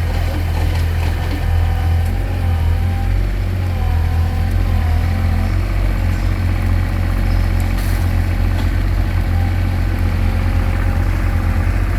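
Mini excavator engine running steadily at idle, a loud, even low hum.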